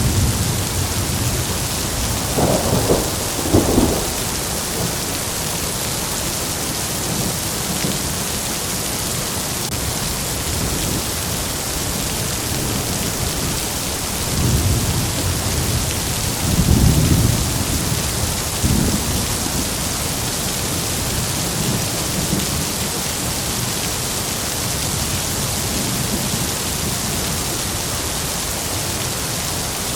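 Heavy rain falling steadily, with rolls of thunder rumbling a few seconds in and again in a longer roll about halfway through.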